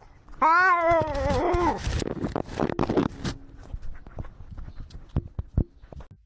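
A cat's drawn-out, wavering yowl about half a second in, followed by a burst of scuffling and knocks, then scattered clicks.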